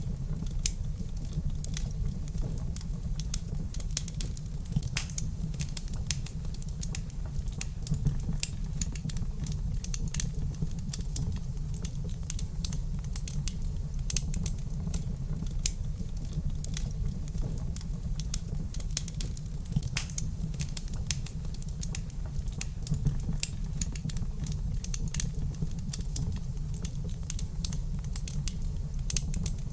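Wood fire crackling in a fireplace: irregular sharp snaps and pops over a steady low rumble of the burning logs.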